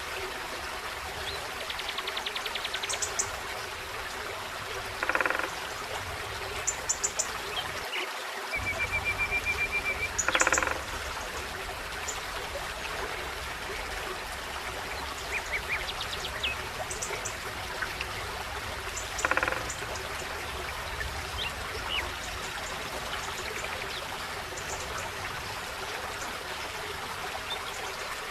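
A forest stream running steadily, with birds calling over it: short trills and chirps, and three louder, harsher calls spread through.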